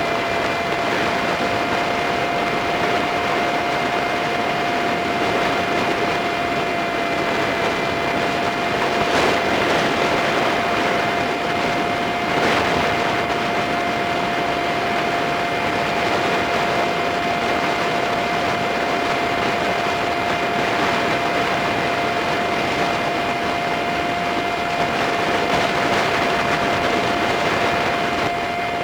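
Sped-up dashcam recording of a Honda Super Cub 50 on the move: a dense, steady rush of wind and road noise with a constant thin whine over it.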